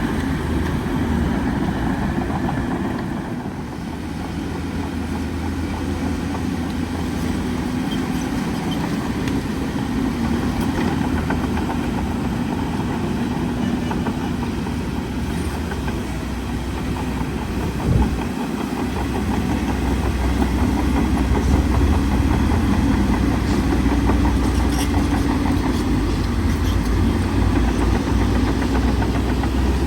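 Heavy diesel engine of a bulldozer running steadily under load, with clatter from its steel tracks. A single sharp knock about two-thirds of the way through, and the engine grows louder in the last third.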